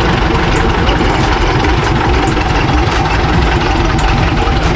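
A vehicle engine idling steadily, with a dense low rumble and scattered clicks throughout.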